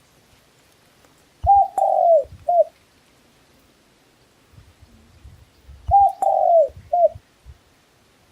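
A dove cooing: two identical three-note phrases about four seconds apart, each a short note, a longer note falling in pitch, and a short closing note.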